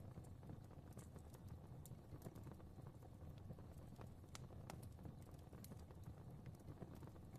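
Soft fireplace crackling: scattered faint pops and snaps at irregular intervals over a low, steady rumble of the flames.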